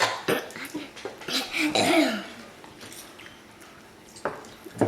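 A person's cough-like throat sounds: sharp short bursts near the start and end, with a brief vocal sound in the middle.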